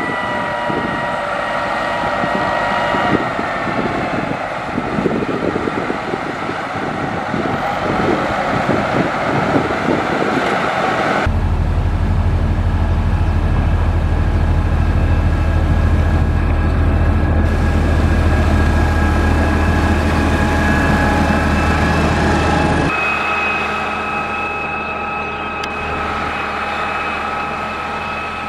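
Heavy road-construction machinery, a diesel engine running steadily with a whine and a low hum. The sound changes abruptly twice, about eleven seconds in, when a strong low hum sets in, and again near twenty-three seconds in.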